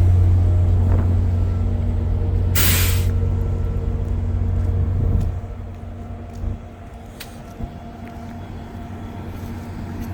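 VIA Rail passenger train's diesel locomotives running with a deep steady rumble, and a short sharp air-brake hiss about two and a half seconds in. The rumble drops off suddenly about five seconds in, leaving a quieter hum with a few faint clicks.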